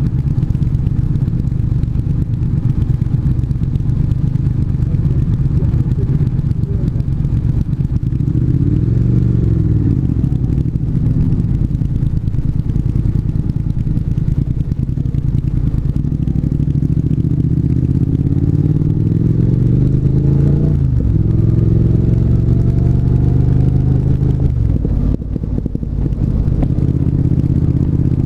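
Triumph 1200 parallel-twin motorcycle engine running under way, mostly steady. About two-thirds of the way through it climbs in pitch as the bike accelerates, drops suddenly as a gear change, then climbs again before easing off briefly near the end.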